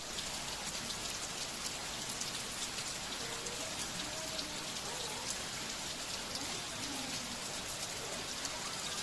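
Heavy rain falling steadily, a dense hiss of drops with many fine individual drop ticks.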